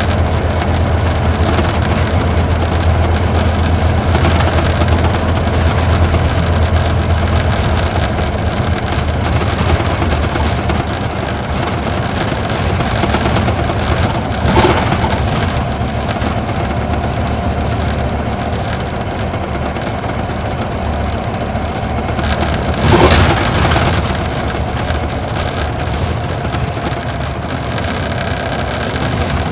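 Isuzu Gala coach's V-type diesel engine running under way, heard from inside the bus along with road and tyre noise. The deep engine drone eases about a quarter of the way in. Two brief thumps come through, one near the middle and a louder one later.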